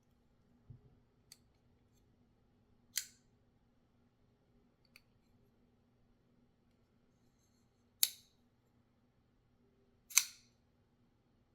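Shirogorov RKMP's full-titanium framelock flipper knife, its blade on roller bearings snapping into place: three sharp metallic clicks with a short ring, spaced several seconds apart, and a few fainter ticks between.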